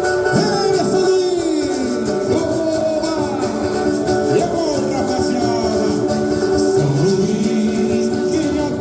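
Live samba-enredo performance without the drum section: a singer over strummed cavaquinho and guitar, with a shaker.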